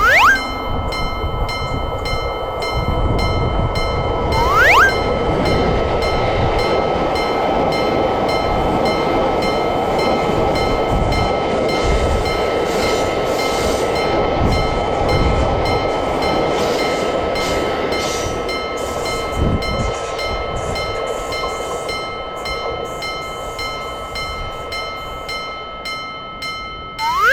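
A train running past a railroad crossing, a steady rushing and rumbling that builds a few seconds in and fades near the end, with the crossing's warning signal ringing in an even rapid rhythm throughout. A short rising whistle-like glide sounds about four and a half seconds in.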